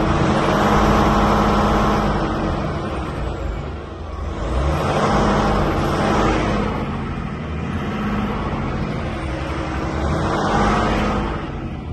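DAF XF 480 tractor unit's 12.9-litre PACCAR MX-13 straight-six diesel revved from idle and let fall back about three times, each rev swelling and dying away.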